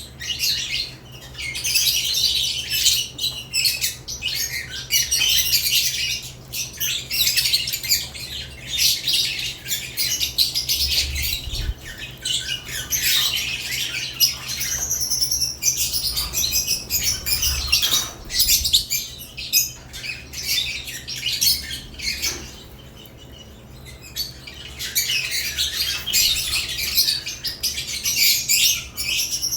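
Caged lovebirds chirping constantly in rapid, high, overlapping calls, with a short lull about three-quarters of the way through, over a low steady hum.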